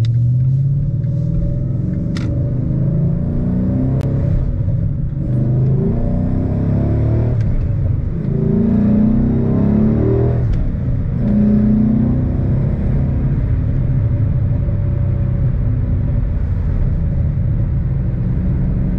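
2011 Mustang GT's 5.0 V8 engine and exhaust under way, revving up several times with the pitch climbing and dropping back, then running at a steady pitch for the last several seconds.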